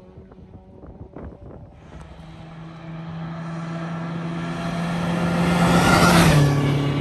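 A rally car approaches at a steady engine speed, its engine note growing louder until it passes close about six seconds in, where the pitch drops as it goes by.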